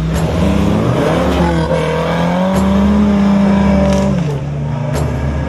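Off-road 4x4's engine revving hard under load, its pitch climbing over the first two seconds, holding, then dropping about four seconds in, with a few sharp knocks.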